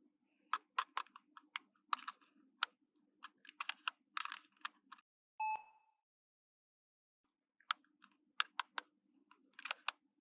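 Small plastic toy pieces clicking and tapping as they are handled, in quick irregular runs. A short electronic beep comes about halfway through, then the clicking resumes.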